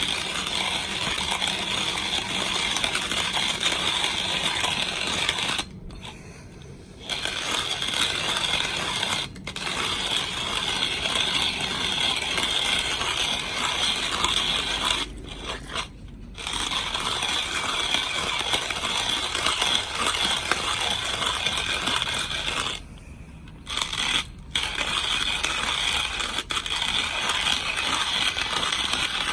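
Vintage hand-crank coffee grinder grinding beans: a steady crunching rattle as the handle is turned, broken by four short pauses.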